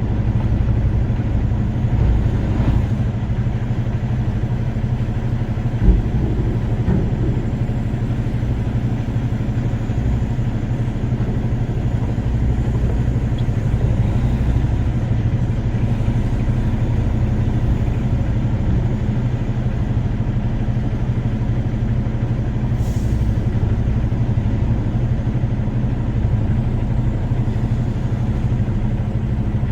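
Truck engine and road noise while driving: a steady low drone, with a single knock about six seconds in.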